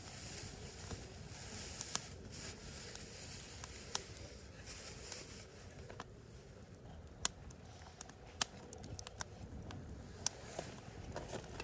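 Wood campfire burning, with a handful of sharp, isolated crackles and pops over a low steady hiss.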